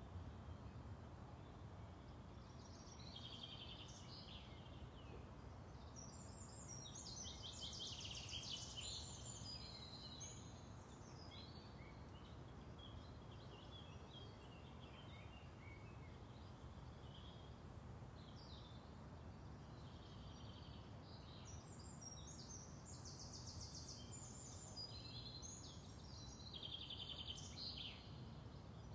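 Faint songbirds chirping and trilling on and off, with two louder bursts of quick repeated notes, over a steady low outdoor background rumble.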